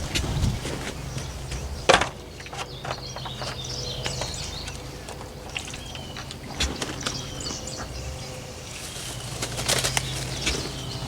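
Laying hens flapping their wings and giving short high calls, with scattered knocks and rustling, the loudest a sharp knock about two seconds in.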